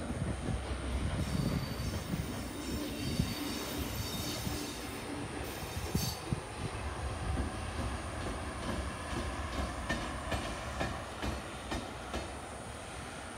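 A train running on the rails: a steady low rumble, with a faint high wheel squeal a few seconds in and wheels clacking over rail joints in the second half.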